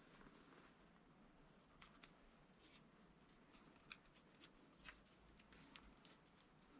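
Near silence, with faint scattered small clicks and taps of light handling.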